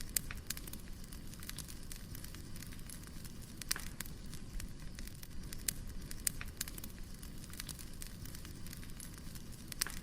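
Wood fire crackling: a steady low rumble with irregular sharp pops and snaps, a stronger pop about four seconds in and another near the end.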